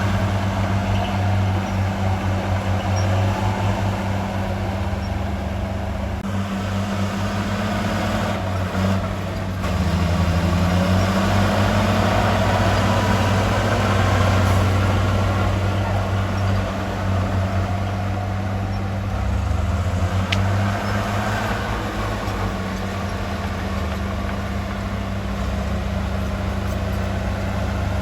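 Heavy diesel engine of earthmoving machinery running steadily, its pitch shifting slightly a few times as the load changes.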